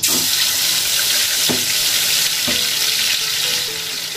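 Marinated chicken hitting hot oil in an aluminium kadhai: loud sizzling that starts suddenly and eases a little near the end. A wooden spatula knocks against the pan a couple of times as the chicken is stirred.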